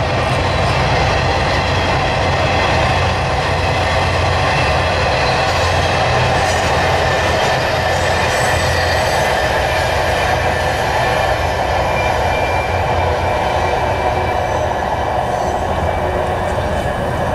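Cars of the Canadian Pacific Holiday Train rolling past on the rails: a steady rumble of wheels with faint high squealing tones, easing off slightly near the end.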